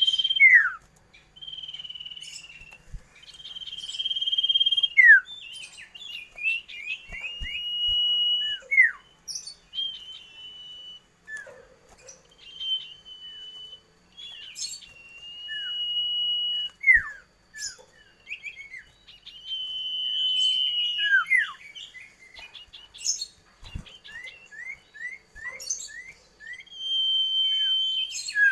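Common iora (cipoh) singing: a series of long, level whistles, each ending in a quick falling note, with short down-slurred chirps in between.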